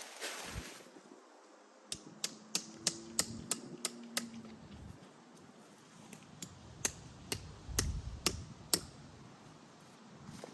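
A series of sharp clicks: a quick run of about eight, three or four a second, then a few more spaced out, over faint rustling.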